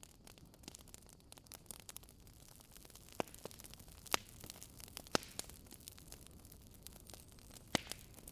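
Wood fire crackling in a fireplace: a soft, steady hiss of burning logs with many small irregular crackles and a few louder sharp pops.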